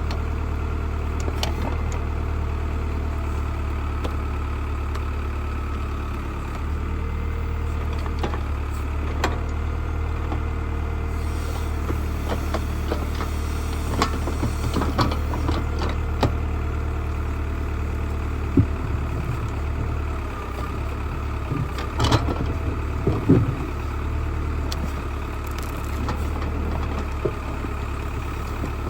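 Old tractor backhoe's engine running steadily at a constant speed, with scattered sharp knocks and clanks, more of them a little past the middle.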